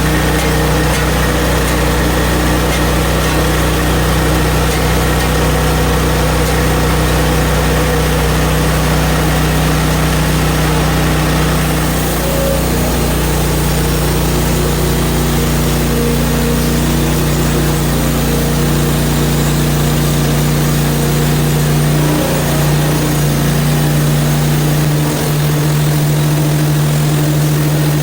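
Portable band sawmill's gas engine running steadily while sawing a log, its note shifting slightly about halfway through and again near the end.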